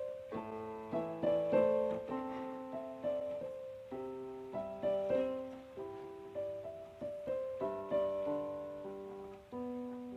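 Soft solo piano music: slow chords and a gentle melody, the notes left to ring and fade.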